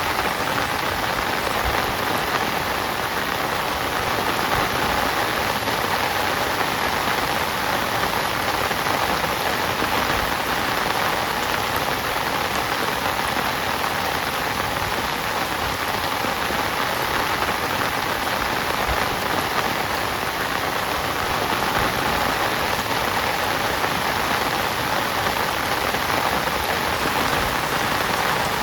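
Heavy rain falling steadily on a tent, an even hiss of drops with no let-up.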